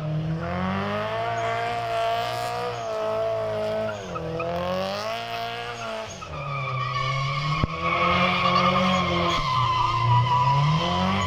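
Rear-wheel-drive-converted Subaru WRX STI engine revved hard and held high, its pitch rising and falling several times, with dips about four and six seconds in. From about six and a half seconds tyres squeal under wheelspin alongside the engine.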